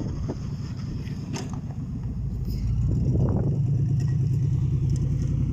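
An engine running steadily, its low hum getting louder about three seconds in.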